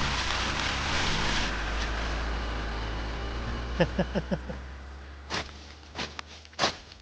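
A vehicle engine running with a steady low hum that fades out after about six seconds. About four seconds in there is a quick run of four short chirps, and a few sharp clicks follow near the end.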